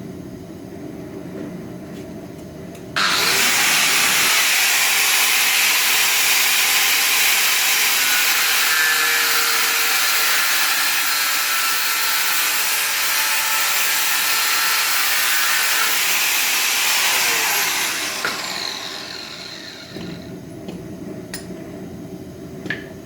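A handheld power tool switched on suddenly and run steadily for about fifteen seconds, then switched off, its whine falling as it spins down. A couple of sharp clicks near the end.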